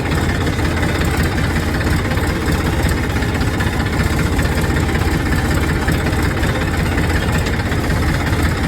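Tractor-type engine idling steadily, a low, even running sound.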